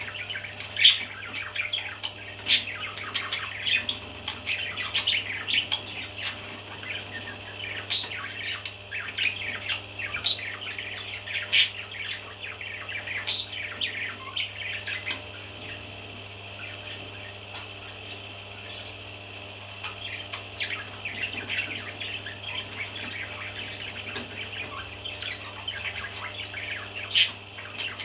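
Parrot chicks chirping and squawking: many short calls overlapping, with a few sharp louder squawks and a quieter spell a little past the middle. A steady low hum runs underneath.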